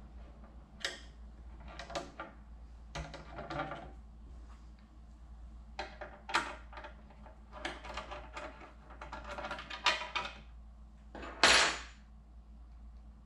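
Hard parts being handled: scattered knocks, clicks and rattles, with one louder, longer scraping or rustling noise near the end.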